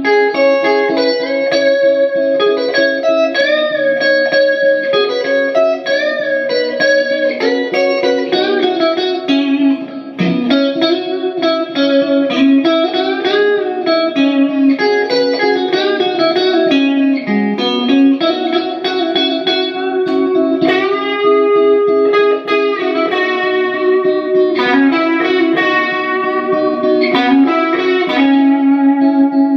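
Harley Benton ST-62 Strat-style electric guitar played through an amplifier, a continuous melodic line of picked single notes and chords, with string bends and vibrato on held notes.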